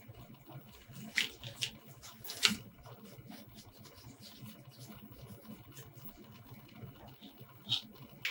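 A few light clicks and taps, about four in all, over a low background.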